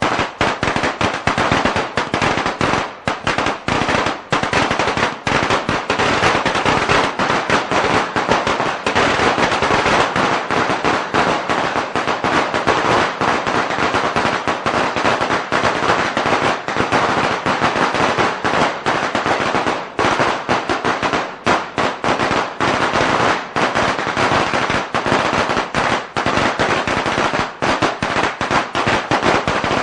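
A string of Chinese firecrackers (biānpào) going off in a rapid, unbroken crackle of sharp bangs.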